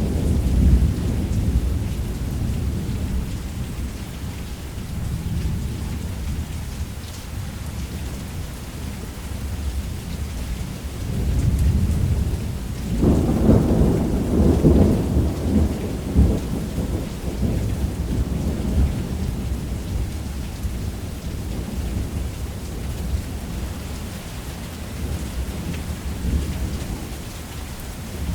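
Thunderstorm: steady heavy rain under a continuous low rumble of thunder. About halfway through, a louder thunderclap breaks and rolls on for a few seconds.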